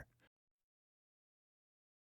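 Near silence: a dead-quiet pause with no sound at all after the narrator's last word dies away at the very start.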